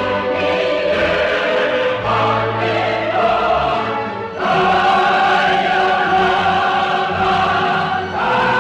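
Choral music with orchestra: a choir holding long, sustained chords that change to new chords every few seconds.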